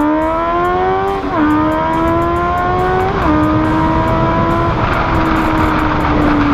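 Honda CBR motorcycle with an SC Project aftermarket exhaust accelerating through the gears. The engine note climbs, drops with an upshift about a second in, climbs again and drops with a second upshift about three seconds in. It then holds steady and slowly falls off.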